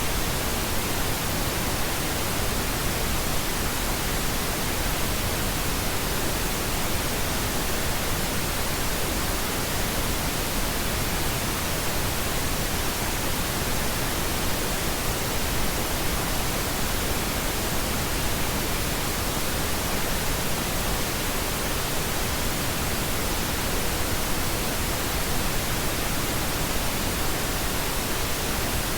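Steady synthetic pink noise: an even, unchanging hiss spread across the whole range from deep rumble to high treble, with no events or changes.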